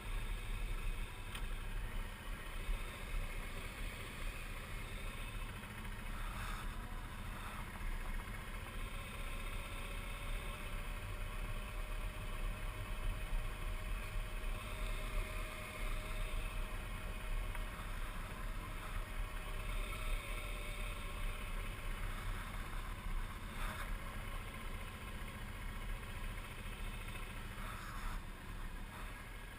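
Suzuki V-Strom 650's V-twin engine running steadily at road speed under a constant rush of riding wind on the microphone.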